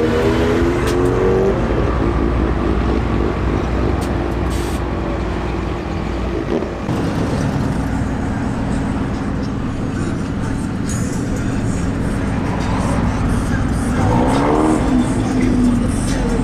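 Vehicle engines running with a steady rumble, one engine revving up about fourteen seconds in.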